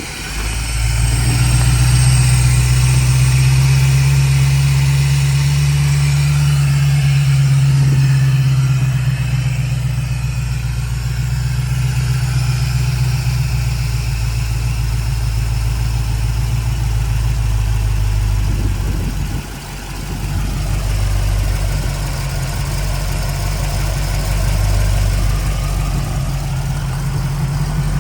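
1968 Chevrolet Camaro engine idling steadily just after start-up, with a brief dip in level about two-thirds of the way through before it settles back to a steady idle.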